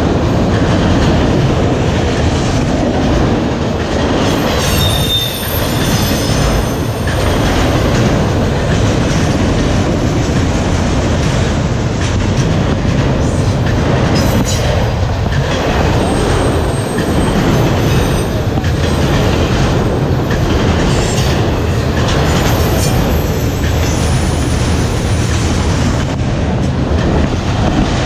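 Freight train of autorack cars rolling past close by: a loud, steady rumble of steel wheels on the rails, with thin high wheel squeals about five seconds in and again later.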